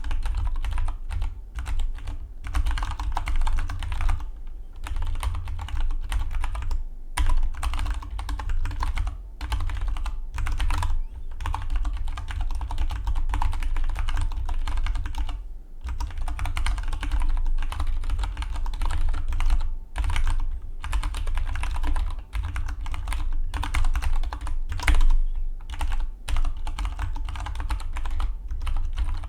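Fast, continuous typing on a Dygma Defy split mechanical keyboard: a dense stream of key clicks, broken by brief pauses every few seconds.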